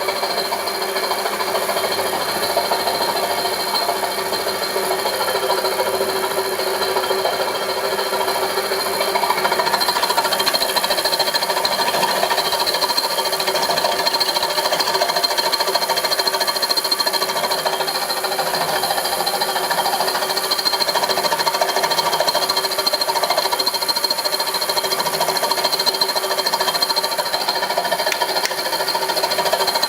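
Homemade milling machine running steadily: a continuous machine hum with several held tones and a rattling clatter throughout.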